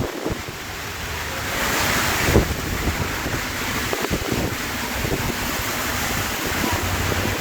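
Storm of heavy, wind-driven rain: a dense hiss of rain with wind gusts buffeting the microphone, swelling about two seconds in.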